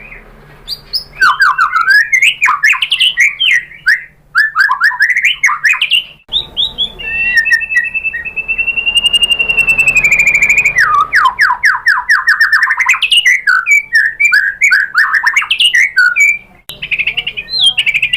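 White-rumped shama singing: a rapid, varied run of chirps, trills and whistled phrases, with one long whistle held in the middle followed by a fast trill.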